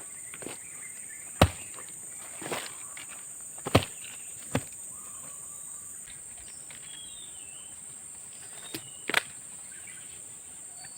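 Steady high-pitched insect drone of tropical forest, broken by about six sharp knocks or snaps scattered through, the loudest about a second and a half in and near four seconds, and a few faint bird chirps in the middle.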